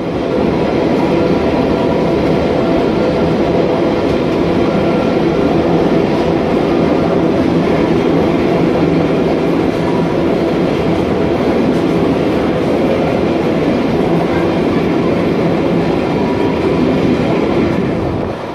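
Metre-gauge electric train of the Little Yellow Train running through a tunnel: a loud, steady rumble of wheels on rail. The level falls a little near the end as the train comes out of the tunnel into the open.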